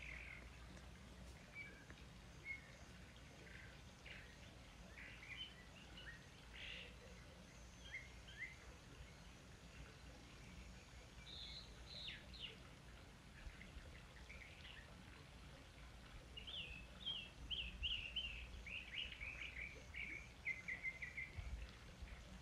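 Wild birds chirping and calling on and off, with a faster run of quick chirps in the second half, over a faint steady low rumble.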